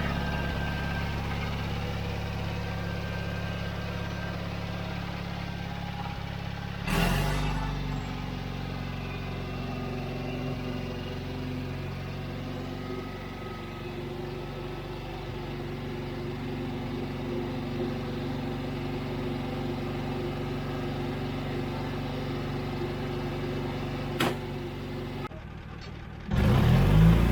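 John Deere 317 riding lawn mower engine running steadily, back in service after its plugged carburetor was cleaned. A brief louder thump comes about seven seconds in, and a sharp click near the end.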